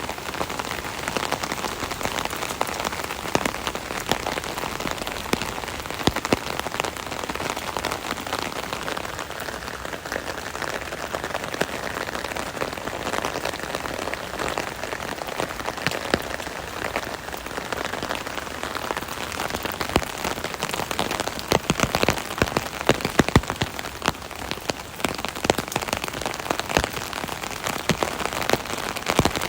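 Rain falling on an umbrella canopy: a steady patter of many drops, with heavier, sharper drop strikes for a few seconds about two-thirds of the way through.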